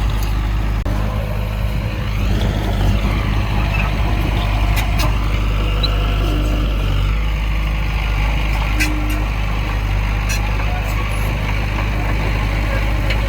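Heavy diesel engine of earthmoving machinery running steadily, with a few sharp metallic clanks.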